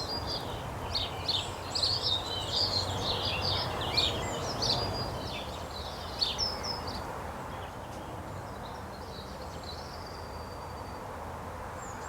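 Small songbirds chirping rapidly over steady outdoor background noise. The chirping thins out after about seven seconds, leaving a single faint whistle near the end.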